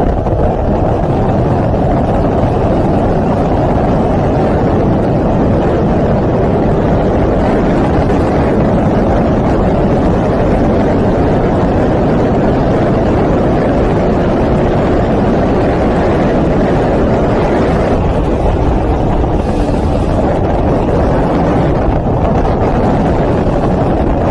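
Motorcycle riding at speed: a loud, steady rush of wind and engine noise that holds without a break.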